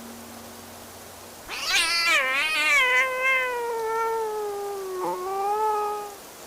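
A cat meowing: one long, wavering meow that slowly falls in pitch, then a shorter second meow near the end.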